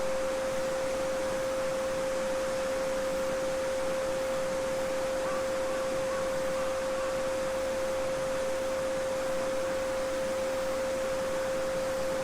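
A steady 528 Hz sine tone held unbroken over the even rushing of a small babbling brook.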